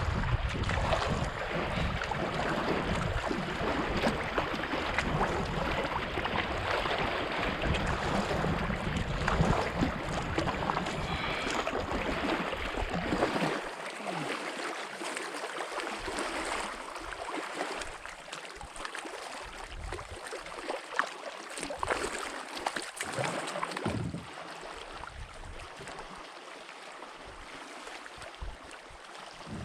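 Wind buffeting the microphone over choppy lake water slapping and splashing against a canoe. The low wind rumble drops away about halfway through, leaving the water sounds with occasional sharper splashes.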